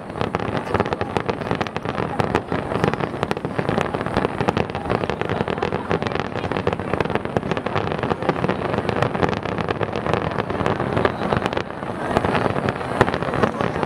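Dense fireworks barrage: many aerial shells bursting at once in rapid, overlapping bangs and crackles, with a brief lull shortly before the end.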